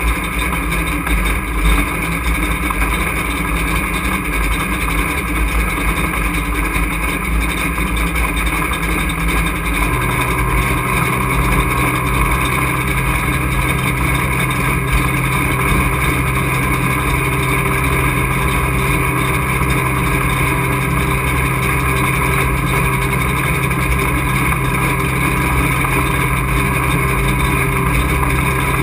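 Race truck's engine running at a steady pace, heard from inside the cockpit. About ten seconds in, a steadier low hum sets in and holds.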